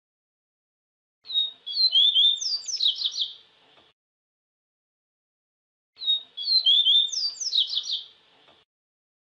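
Papa-capim (Sporophila seedeater) singing: two identical song phrases, each a quick, jumbled run of high chirps and down-slurred notes lasting about two and a half seconds, starting about a second in and again about six seconds in. Between the phrases there is complete silence.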